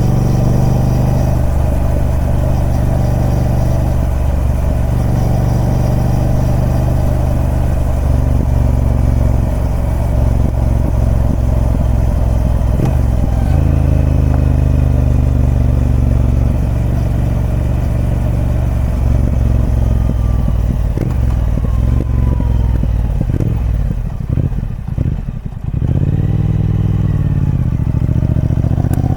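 Triumph Speed Twin 1200's parallel-twin engine through its stock exhaust, running steadily with the engine note rising and falling several times. About three-quarters through it drops off briefly, then swells and climbs again near the end.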